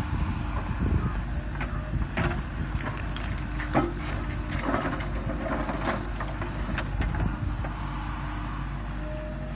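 JCB 3DX backhoe loader's diesel engine running steadily, with several sharp knocks and clanks from the machine at work in the first half.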